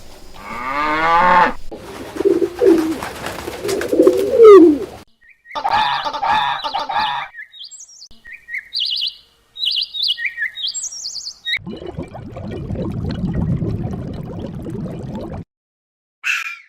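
A string of different animal calls cut one after another: pitched calls in the first few seconds, a run of short high bird chirps from about eight to eleven seconds, then a low rough rumbling sound and a brief call near the end.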